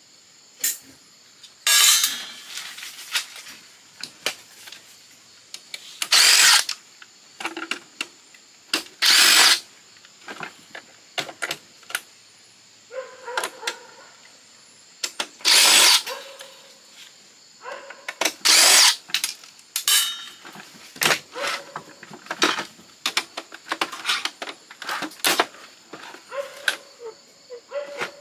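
Power drill or driver running in a series of short bursts, backing screws out of a fax machine as it is taken apart. Between the bursts come clicks and clatter of loosened screws and plastic parts.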